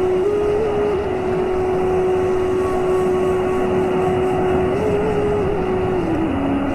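Waterfall's steady rushing roar, with a single held tone above it that steps up and down in pitch a few times.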